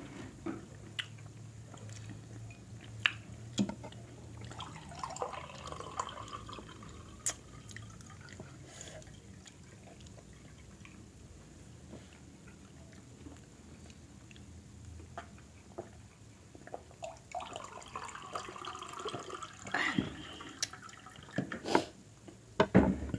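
Eating and drinking sounds at a table: scattered sharp clicks and taps, with wet, liquid sounds of water being poured or drunk.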